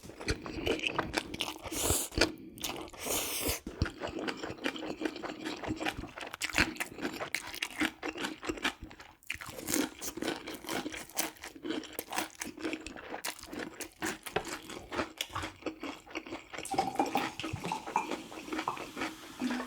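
A person chewing and crunching food close to the microphone, in dense, irregular crunchy clicks.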